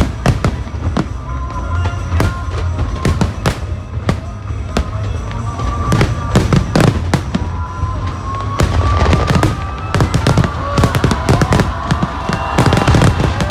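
Fireworks display: a dense run of bangs and crackling bursts over a constant low rumble, with a rising whistle about two-thirds of the way through.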